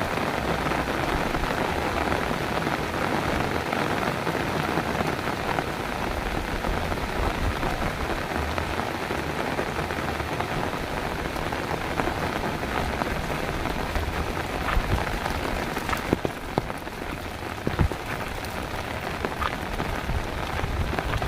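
Heavy rain falling steadily, with a few sharper drop knocks in the last few seconds.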